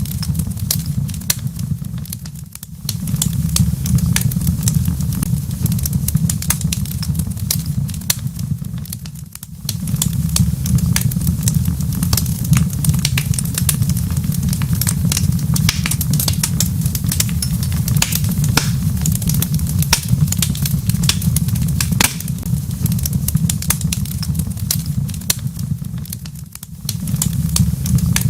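Wood fire crackling in a fireplace: many sharp, irregular snaps and pops over a steady low rumble. The rumble dips briefly about two and a half seconds in, about nine seconds in, and near the end.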